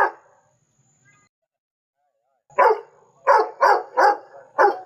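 A dog barking: one bark at the start, a pause of about two seconds, then a quick run of five barks.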